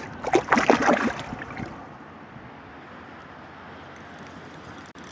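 A carp splashing as it is slipped back into the lake: a burst of splashing about a second long near the start, then steady wind and water background.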